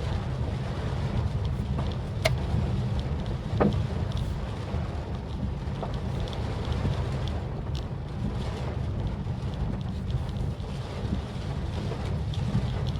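Maruti Suzuki Swift Dzire driving in the rain, heard from inside the cabin: a steady low rumble of engine and road with a hiss of wet tyres, and a few scattered light taps.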